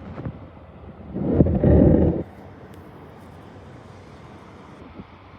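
Street noise from below a window over a light rail line. About a second in, a loud low rumble lasts about a second and stops abruptly.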